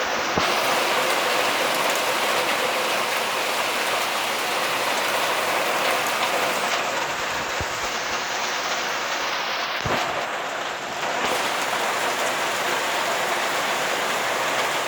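Storm rain pouring steadily, with a few brief knocks near the start and one about ten seconds in.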